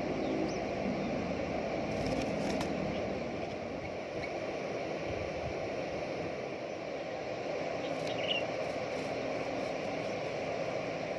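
Steady low rumbling background noise, with a few faint ticks and a brief high chirp about eight seconds in.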